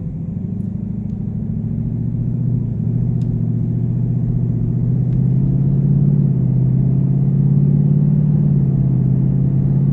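2018 Mustang GT's 5.0 V8 pulling in drive at around 2000 rpm, getting louder over the first several seconds and then holding steady. The throttle is a little too high for the engine's 2000 rpm rattle to show, so no rattle is heard.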